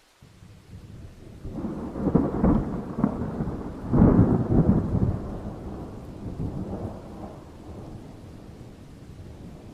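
A thunder peal over steady rain. It starts suddenly just after the beginning, builds to loud cracks about two and four seconds in, then rumbles on and slowly dies away.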